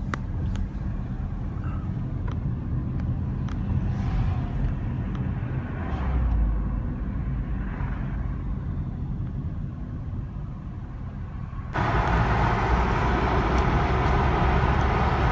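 Road noise of a car driving: a steady low rumble of engine and tyres. About twelve seconds in, a louder rushing noise starts suddenly and carries on.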